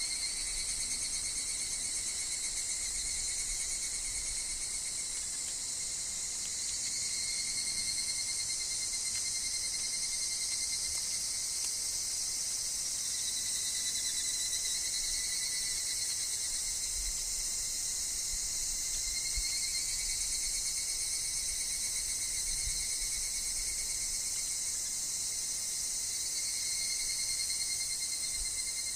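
Steady, dense insect chorus: many insects ringing together at several overlapping high pitches, swelling and easing a little now and then.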